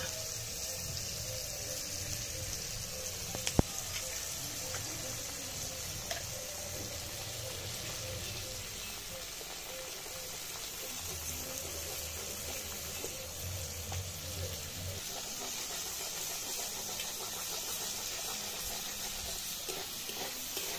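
Egg and sliced vegetables sizzling steadily in hot oil in a kadai (wok), stirred with a metal spatula. A single sharp tap about three and a half seconds in.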